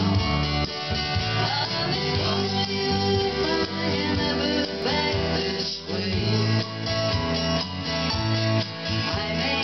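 Country music played live, led by a strummed guitar.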